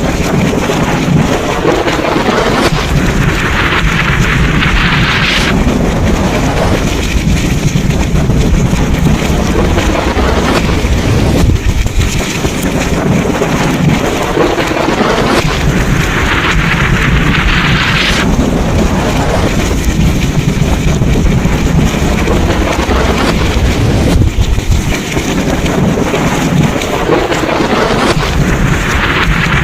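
Thunderstorm: heavy rain and wind with a continuous low rumble of thunder. A louder hiss swells and drops about every twelve seconds.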